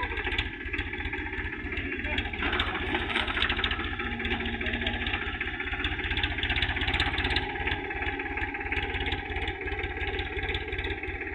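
Tractor engine running steadily with a rapid, even chug.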